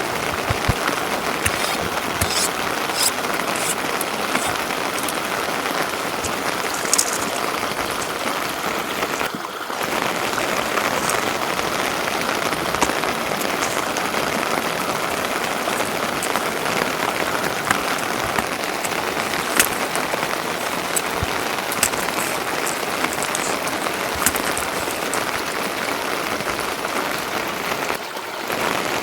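Steady rain falling, an even hiss with scattered sharp drop ticks. The sound dips briefly twice, about nine seconds in and near the end.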